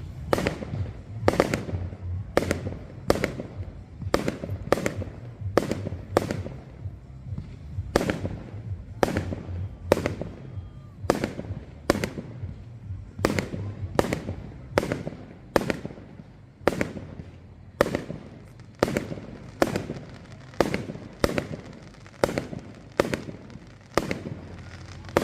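Fireworks display: a long, regular run of sharp bangs, roughly one a second, each followed by a short ringing tail, over a steady low hum.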